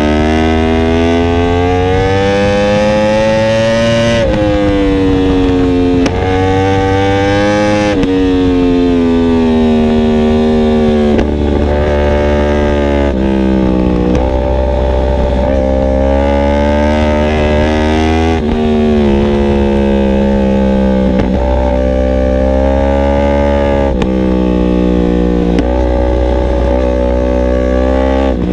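Yamaha R1M's crossplane inline-four with an Akrapovic exhaust, heard onboard while ridden hard. The engine note climbs under acceleration and drops sharply at each of several upshifts a few seconds apart, with a few stretches where the pitch sinks as the bike slows.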